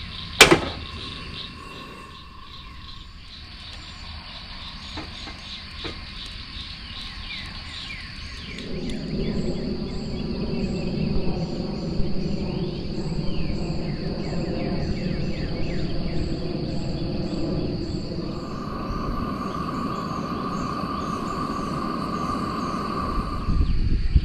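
Crickets and other insects chirping steadily, with a sharp click just after the start. About a third of the way in, a louder low rumbling noise joins and continues to the end.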